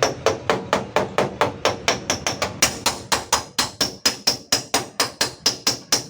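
Hammer tapping on the sheet-steel rear door panel of a Daihatsu Luxio in quick, even strikes, about four a second, each with a short metallic ring: knocking out a small dent from the panel.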